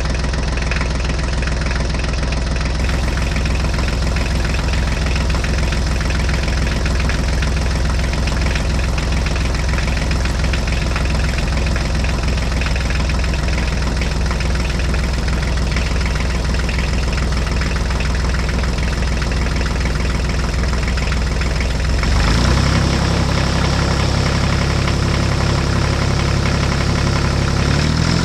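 Tractor diesel engine running steadily with a low knocking drone. About 22 seconds in it steps up to a slightly higher, louder pitch, as if put under more load or revved.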